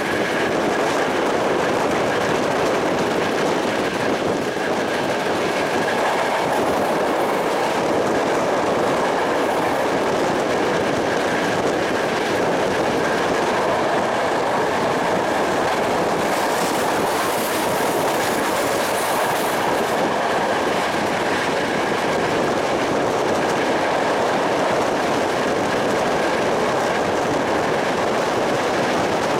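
Passenger train running steadily at speed, heard at an open carriage window: an even rush of wheels on rails and moving air, with a faint steady high tone.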